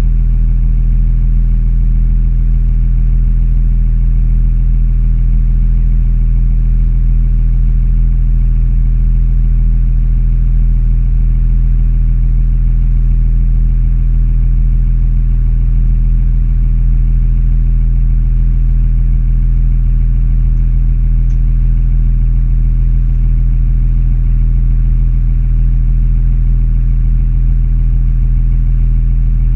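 Car engine running steadily, a constant low drone with no change in pitch or level.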